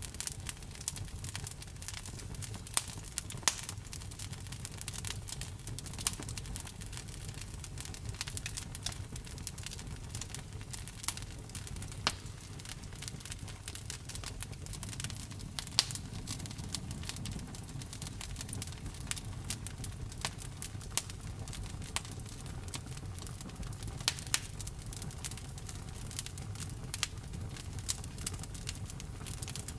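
Wood fire burning, crackling steadily with irregular sharp pops and snaps over a low rumble of the flames.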